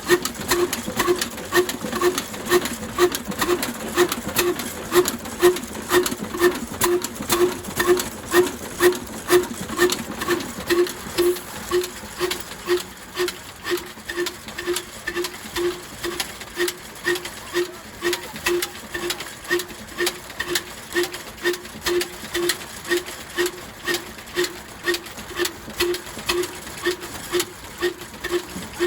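Old black oil diesel engine running slowly and evenly, with a heavy regular beat about twice a second.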